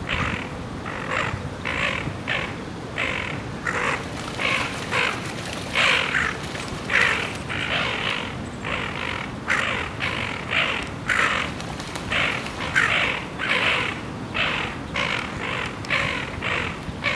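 Repeated short bird calls, about two a second, going on without a break.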